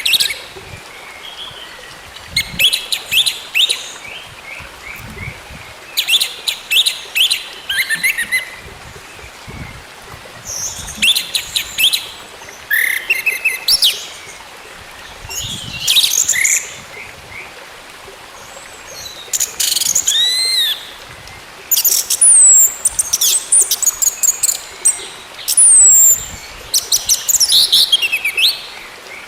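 Orange-headed thrush singing in short, varied phrases of clear whistles, sliding notes and fast rattling chatter, a new phrase every two to three seconds.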